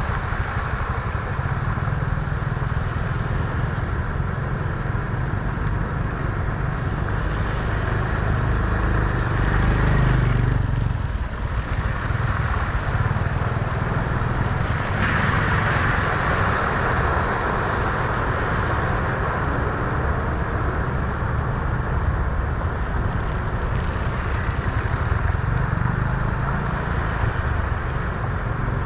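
Road vehicles driving through deep floodwater at a ford, making a steady rushing, splashing noise over a low engine rumble. The noise swells louder about ten seconds in and again about fifteen seconds in as vehicles pass.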